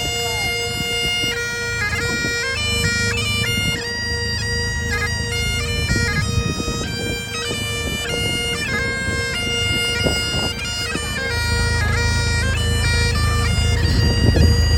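Bagpipes playing a tune over their steady drone. The chanter melody starts moving between notes about a second in.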